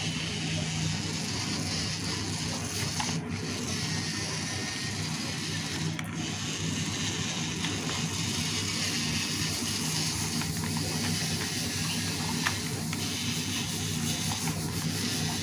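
Small electric motor and gearbox of a homemade RC tractor running steadily, a continuous whirring hum.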